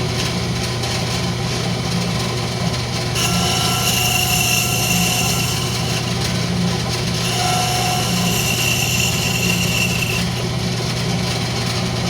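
Wood lathe motor running with a steady hum as a turning tool cuts the spinning rosewood. The cut comes in two passes of a few seconds each, about three seconds in and again about seven seconds in, each giving a high ringing whine with a hiss.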